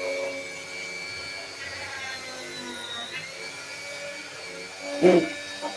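Dremel rotary tool running at speed with a steady high motor whine, its pitch dipping briefly about three seconds in. A sharp loud knock about five seconds in.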